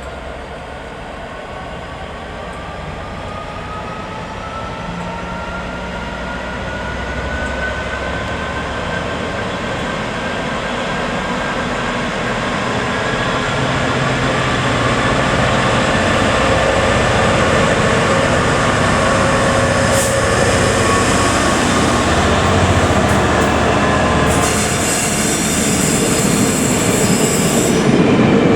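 Train approaching, growing steadily louder, with a faint whine that slowly rises in pitch. A high hiss comes in about 24 seconds in and stops shortly before the end.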